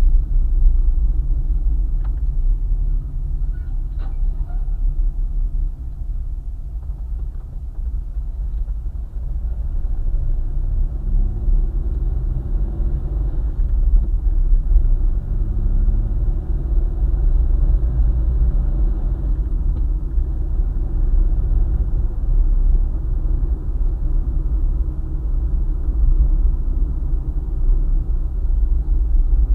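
A car driving on a highway: a steady low rumble of road and engine noise, with a faint tone that rises and falls in pitch midway through.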